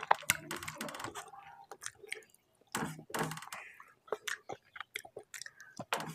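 Close-miked chewing of a mouthful of rice and curry: wet mouth sounds and sharp smacks, with a couple of short pauses between chews.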